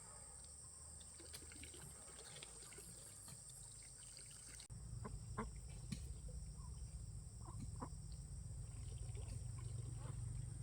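Faint outdoor farm ambience: a steady high-pitched drone, with a low rumble coming in suddenly about halfway through and a few short animal calls after it.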